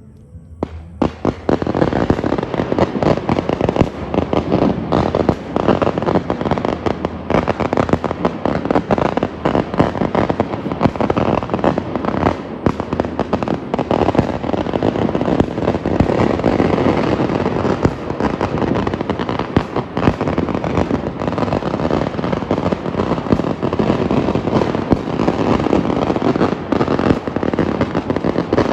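A long string of firecrackers going off, a dense rapid crackle of bangs that begins about a second in and keeps on without a pause.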